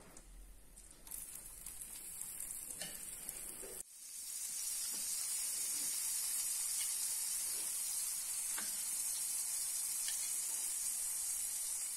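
Tomato and onion slices sizzling in hot oil on a flat griddle (tawa), with a few faint taps of a metal utensil on the pan. The sizzle is softer at first, breaks off sharply just before four seconds in, then comes back louder and steady.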